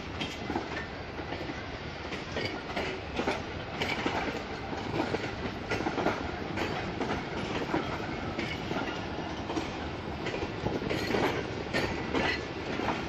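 Passenger coaches of an arriving train rolling past, the wheels clattering over the rail joints with a continual irregular run of clicks and knocks.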